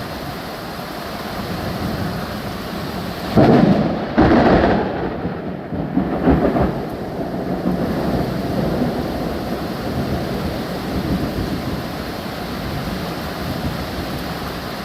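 Thunder over steady rain: a sharp loud clap about three and a half seconds in, a second close behind it, and a weaker third rumble a couple of seconds later, with the rain hiss running on beneath.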